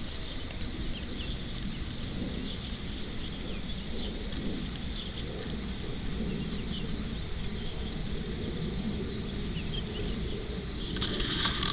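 Outdoor rural ambience: insects chirring steadily with a low rumbling noise underneath. Near the end comes a short scratchy rustling burst.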